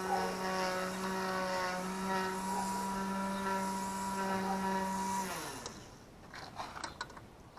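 A motor running with a steady hum, then winding down in pitch and stopping about five seconds in, followed by a few light clicks.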